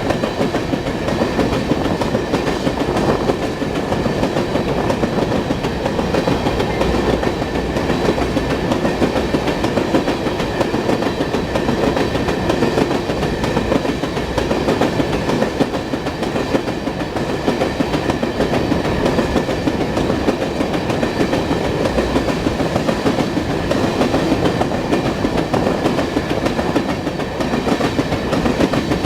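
Train cars rolling past on the rails, a loud, steady run of wheel noise with a thin, steady high tone above it.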